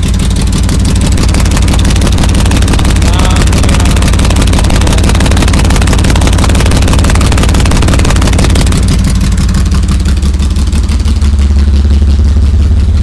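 Air-cooled flat-six of a 1973 Porsche 911T 2.4L CIS idling steadily, running again after ten months in storage; the note gets deeper and heavier about eleven seconds in.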